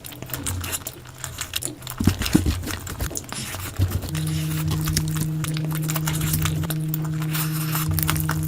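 Close-miked eating sounds: chewing with many small mouth clicks. About four seconds in, a steady low hum starts and continues under the chewing.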